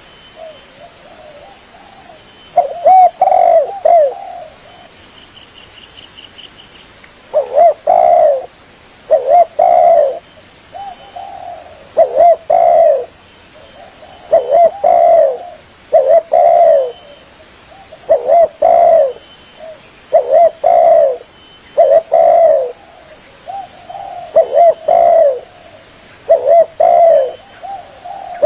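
Spotted dove (tekukur) cooing, used as a bird-trapping lure. It gives repeated phrases of two or three low coos, one phrase every second or two, with a lull of a few seconds near the start.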